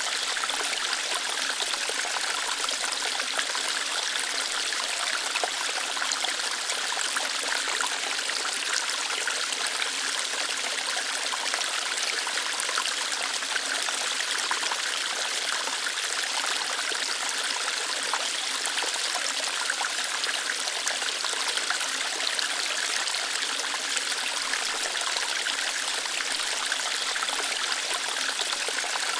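Small waterfall flowing lightly over rocks: a steady, even rush of running water with fine splashing, mostly high-pitched with little low rumble, unchanging throughout.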